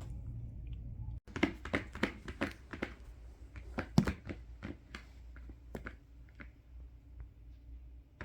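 Irregular light clicks and taps, as of small objects being handled, over a low steady hum; the sound cuts out for an instant about a second in.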